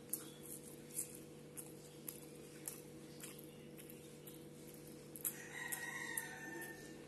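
Close-up eating sounds: wet chewing and lip smacks, heard as sharp clicks about every half second, over a steady low hum. About five seconds in, a rooster crows in the background for just under two seconds.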